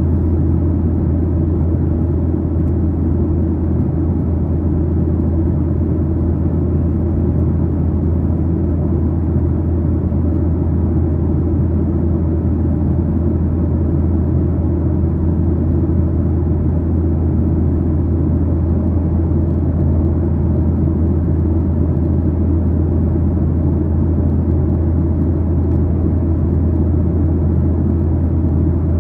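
Steady low drone inside the cabin of a Boeing 737-900ER: its CFM56-7B turbofan engines and the airflow past the fuselage, heard as a constant deep hum with an even rushing noise over it.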